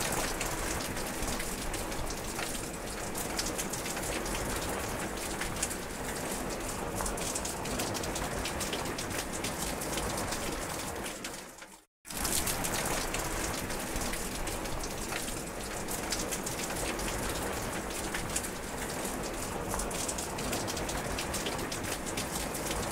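Steady heavy rain: an even hiss with many distinct drop ticks. It cuts out for a moment about halfway through and comes straight back.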